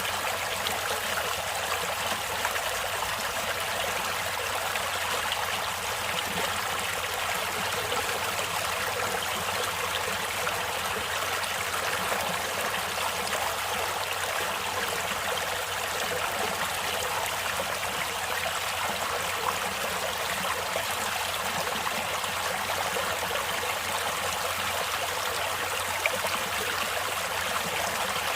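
Stream water running and splashing over rocks: a steady rushing and trickling that does not change.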